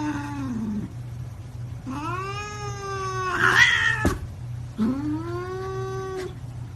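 Cat caterwauling: three long, drawn-out yowls, each rising, holding and then sagging in pitch, with a harsh noisy burst in the middle one about three and a half seconds in. A steady low hum runs underneath.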